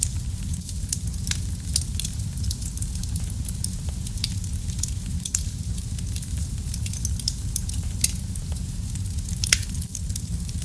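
Wood fire burning in a fireplace: a steady low rumble of flame with frequent sharp crackles and pops. Two louder pops come near the end.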